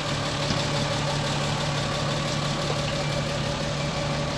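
Heavy diesel engine idling steadily at an even pitch.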